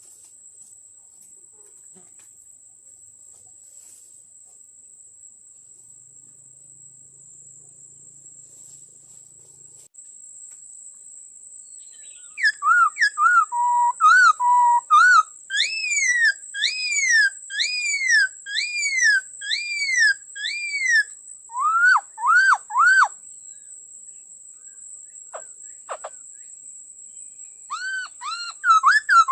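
Laughingthrush singing loud, clear whistled phrases: runs of quick rising-and-falling notes repeated many times, starting after about twelve seconds. A short run follows, then another near the end. A faint, steady, high insect-like whine runs underneath.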